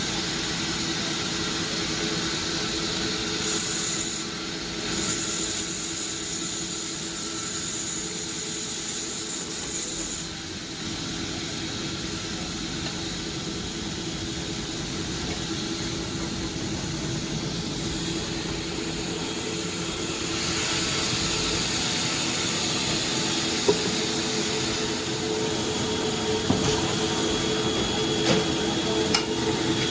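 Sawmill machinery running with a steady hum. A high-pitched whine comes in about three seconds in and stops around ten seconds in, and a few sharp knocks come near the end.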